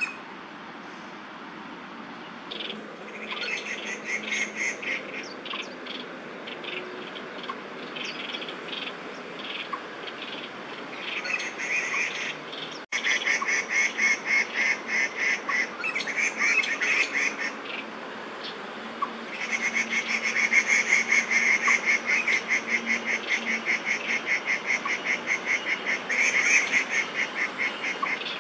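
Pallas's squirrel (red-bellied squirrel) giving its alarm call: long bouts of rapid, evenly repeated harsh calls that go on for several seconds at a time, set off by a crested goshawk perched close by.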